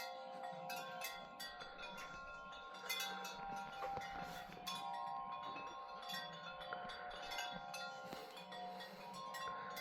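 Wind chimes struck by the wind: frequent irregular strikes, each note ringing on, with several notes overlapping.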